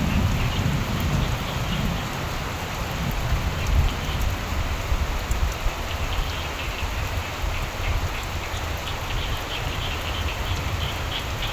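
Steady rain with a low rumble of thunder in the first couple of seconds. From about halfway through, frogs croak in quick repeated pulses, more and more plainly toward the end.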